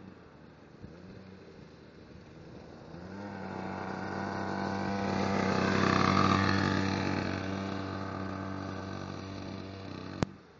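Pocket bike's small engine running at a steady pitch as it rides past, growing louder to about six seconds in and then fading away. A sharp click near the end.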